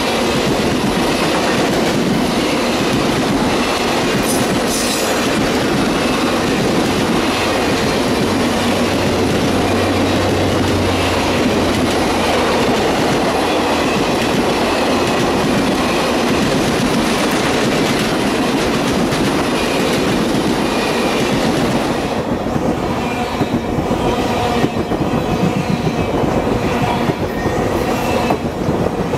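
Circus train passenger cars rolling past at speed: a loud, steady rumble of steel wheels on rail with rhythmic clatter over the rail joints. About 22 s in the rumble thins out and turns uneven, with scattered knocks.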